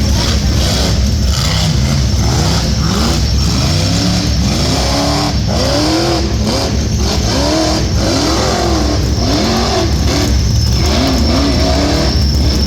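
Rock bouncer race car engine revving up and down over and over in quick succession, each rev rising and falling in about half a second to a second, over a constant heavy low rumble.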